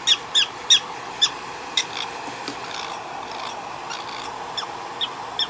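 A prairie dog giving short, high squeaking chirps, several in quick succession in the first two seconds and a couple more near the end, over a soft rubbing sound in between.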